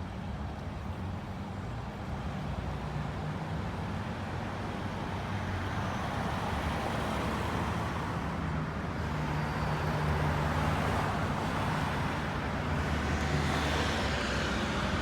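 A motor vehicle's engine running steadily with road-traffic noise, which swells gradually toward the end.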